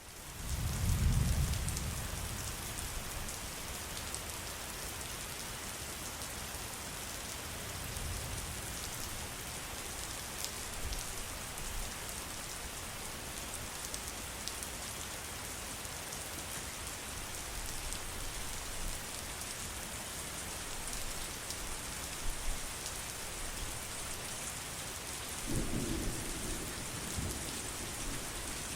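Steady rain falling, with low rolls of thunder: the loudest about a second in, a weaker one around eight seconds in, and another near the end.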